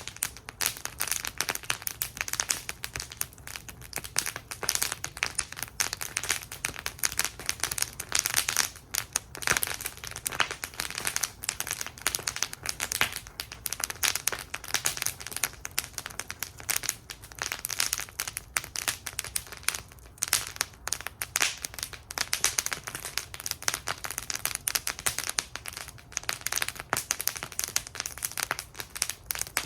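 Wood fire burning in a fire bowl, crackling and popping steadily, with dense irregular snaps.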